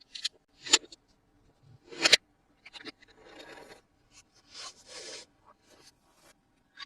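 Toy packaging being handled and opened by hand: short scraping and rubbing noises, with two sharp clicks about one and two seconds in and softer rustling between.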